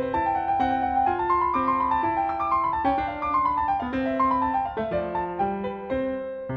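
Background piano music: a gentle melody of single notes over a repeating accompaniment.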